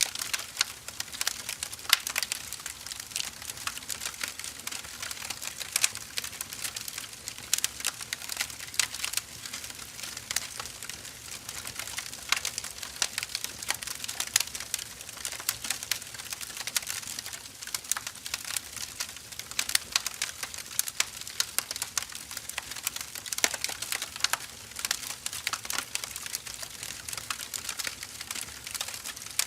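Firewood burning with a continuous crackle: irregular sharp pops and snaps over a soft hiss.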